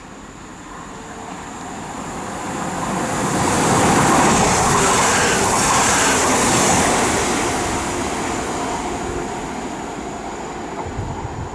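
Class 195 diesel multiple unit approaching and running past along the platform: a rush of wheels and engine that builds to its loudest about four to seven seconds in, then fades as the train goes away.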